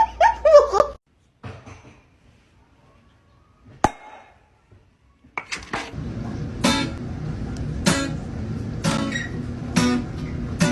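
Acoustic guitar music with regular strums, coming in about halfway through after a quiet stretch broken by a single sharp click.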